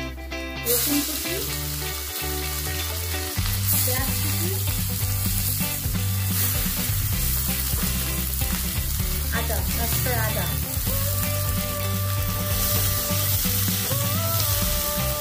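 Onions frying in hot oil in a pan, a steady sizzle that starts about a second in, with background music over it.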